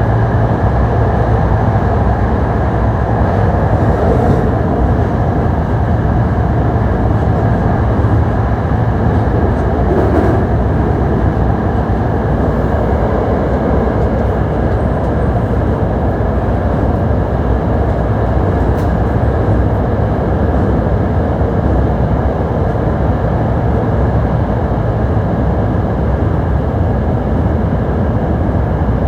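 Hankyu 1300 series electric train running at a steady speed through the underground section, heard from inside the car: an even rumble of wheels on rail with no rising or falling motor whine.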